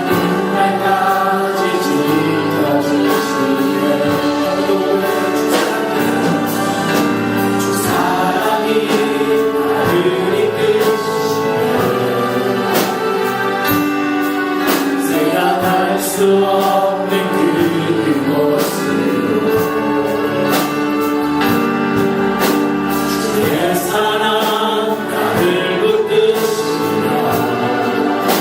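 A choir singing a Christian worship song with instrumental accompaniment and a steady beat.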